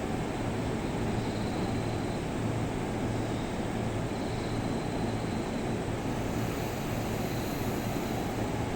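Steady rumble and hum of an E233 series electric commuter train at a station platform.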